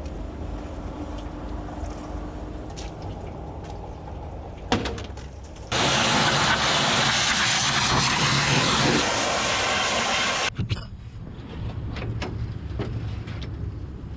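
Pressure washer gun spraying in one loud hissing burst of about five seconds, starting about six seconds in and cutting off suddenly. A steady low engine hum runs underneath, with a few sharp clicks before and after the spray.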